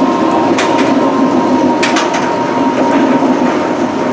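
Wildfire, a Bolliger & Mabillard steel roller coaster, with its train running along the track: a loud, steady rumble carrying a thin steady tone, broken by a few sharp clicks.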